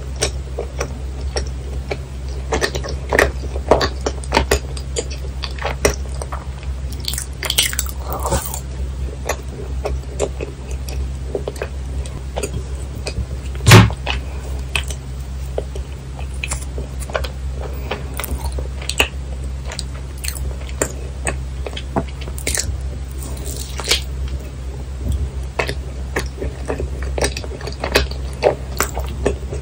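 Close-miked chewing and biting of chewy, sticky yakgwa (Korean honey cookie), later eaten with ice cream on top: many small, wet, irregular mouth clicks. A single sharp knock stands out about 14 seconds in, over a faint steady low hum.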